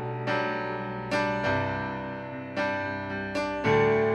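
Piano or electric keyboard playing slow, sustained chords, about six struck chords that each ring and fade, as accompaniment to a worship song between sung lines.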